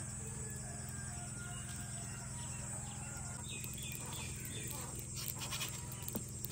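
Birds chirping a few times about halfway through, over a steady low hum.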